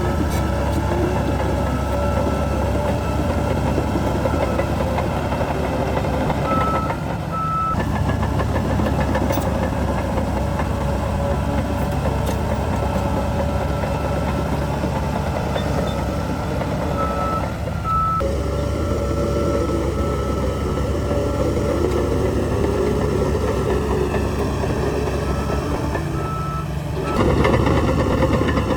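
Heavy diesel earthmoving machinery running steadily, with a reversing alarm beeping at intervals.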